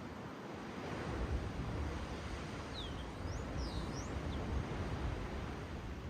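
Steady wash of ocean waves and surf. A few short, high bird chirps come about halfway through.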